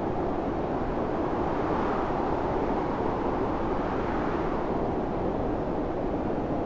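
Storm wind blowing steadily, its pitch swelling and falling slowly.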